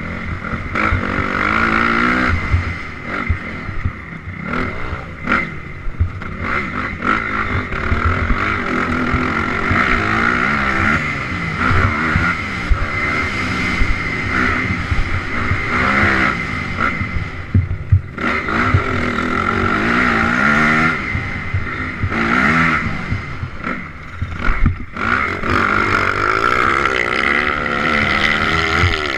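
Honda CRF250R single-cylinder four-stroke dirt bike engine being ridden hard off-road, its revs rising and falling again and again through the throttle and gear changes, with a steady rush of wind noise.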